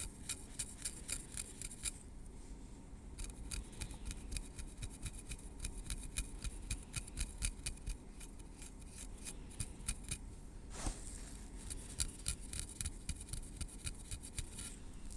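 Metal tweezers working through hair at the scalp: rapid runs of tiny, crisp clicks and ticks with short pauses between runs.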